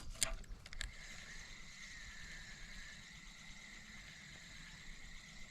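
Steady, high insect drone with a slowly wavering pitch, after a few sharp clicks in the first second.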